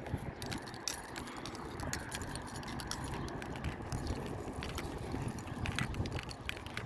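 Outdoor background noise: a steady low rumble with many small scattered clicks and light rattling throughout.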